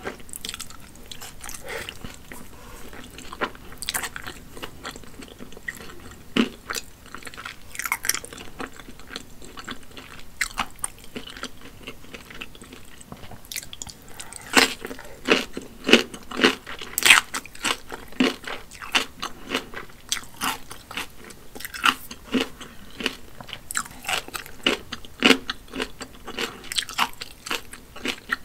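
Close-miked eating of wide hand-pulled noodles: wet chewing with sharp clicks. About halfway through comes a dense run of crisp crunches as kimchi is bitten and chewed.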